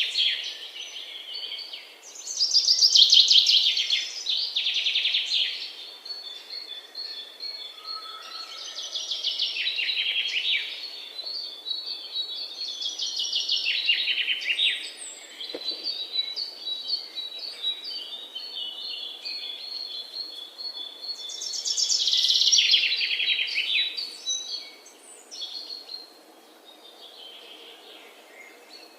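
Songbirds singing: loud, rapid trilled phrases come every few seconds, with a thin, high, rapidly repeated note running through the middle stretch.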